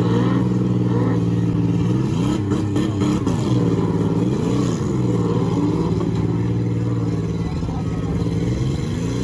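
Demolition derby car engines running hard, with revs rising and falling several times as the cars accelerate and back off.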